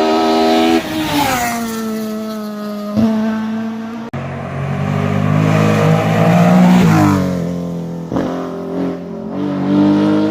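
Historic rally cars driven hard on a stage, engines revving loudly in three short clips cut together. In each, the engine pitch climbs and then drops away as the car accelerates and goes past.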